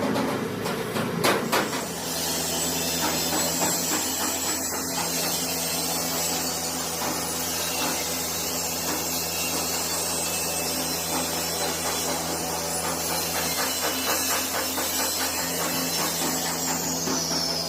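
A power tool running steadily, a low hum with dense rapid ticking and scraping over it.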